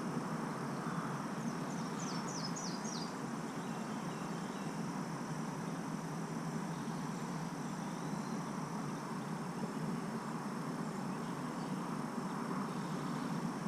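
Lakeside outdoor ambience: a steady wash of noise with a faint, steady high insect drone, and a bird giving a quick run of about five short falling notes about two seconds in.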